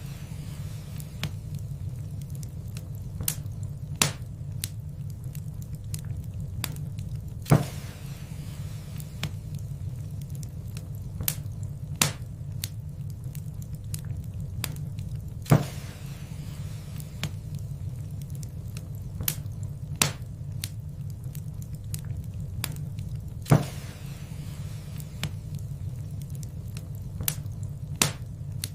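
Wood fire in a fireplace crackling, with a steady low rumble of flames under sharp pops and snaps every second or two; a few louder pops come about every eight seconds.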